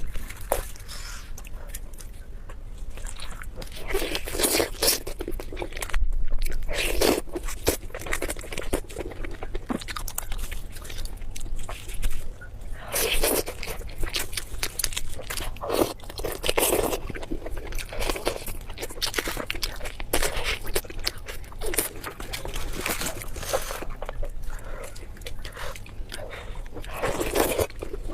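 Close-miked eating: a person biting and chewing food, with crunchy bites recurring every second or two.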